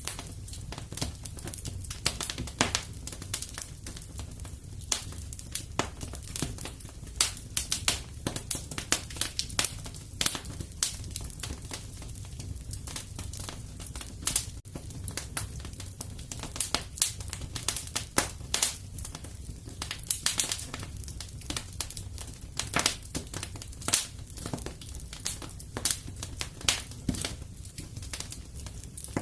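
Wood fire crackling, with many sharp pops and snaps at irregular intervals over a steady low rumble.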